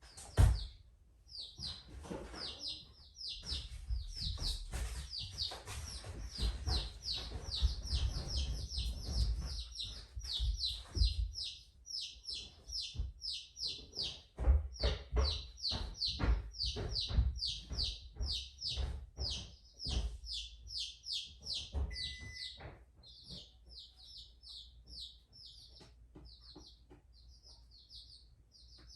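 A small bird chirping over and over, short high chirps at about three a second. Heavy low thuds and rumbling sound under it through the first twenty seconds, then die away.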